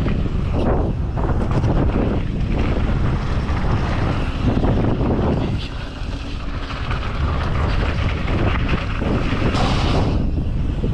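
Heavy wind buffeting the microphone of a camera carried by a mountain biker riding downhill at speed, a loud, steady rushing rumble.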